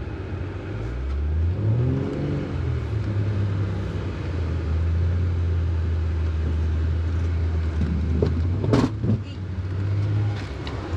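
Jeep engine revving up, its pitch rising, then running at a steady low drone as it drives the snowy trail; a sharp knock near the end.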